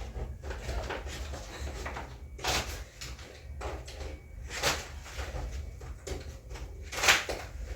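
Curtain rod and rings being handled: three sharp clacks about two seconds apart, the last the loudest, with quieter rattling and shuffling between them.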